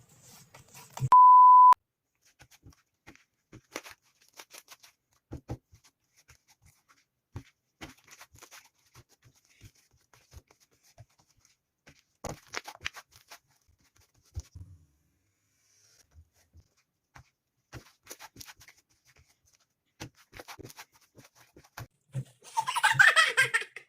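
A short steady beep about a second in, then faint, scattered clicks and crackles from slime being handled. A louder voice comes in near the end.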